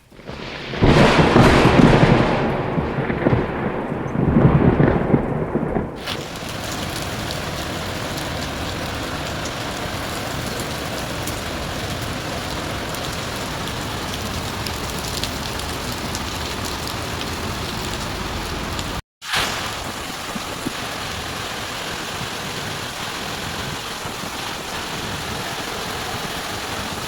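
A long rumble of thunder for the first several seconds, then heavy rain pouring down in a steady hiss. The sound cuts out for a moment about two-thirds of the way through.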